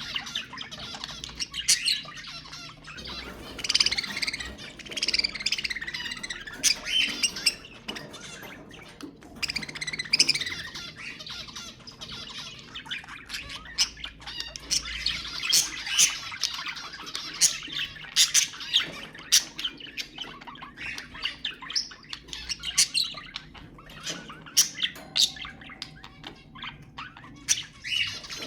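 Budgerigars chattering: a continuous warble of chirps, squawks and quick sharp notes, several birds calling over one another.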